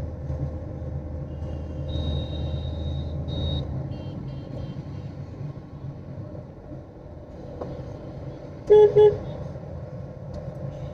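A car horn gives two short beeps near the end, over the steady low rumble of the car and road heard from inside the cabin.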